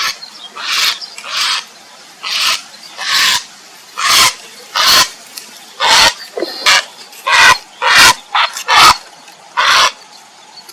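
Grey heron giving harsh, rasping croaks over and over, about a dozen short calls at roughly one a second, coming faster for a few calls about eight seconds in; the uploader presents them as calls for a mate.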